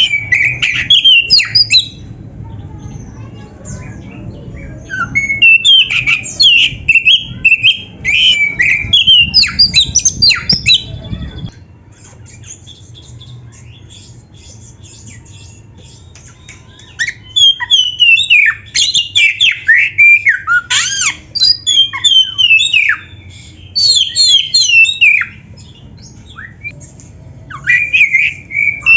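Oriental magpie-robin (kacer) singing a full, varied song of fast whistles, trills and harsh chattering notes. It comes in several long bursts with short pauses between them.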